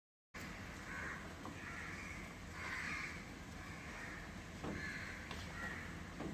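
A bird calling over and over, about one harsh call a second, with a few short light clicks among the calls.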